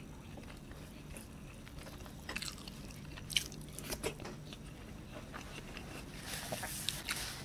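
Close-miked chewing and wet mouth clicks of a person eating rice and chicken kerutuk by hand. A brief rustle comes near the end as fingers gather rice from the board.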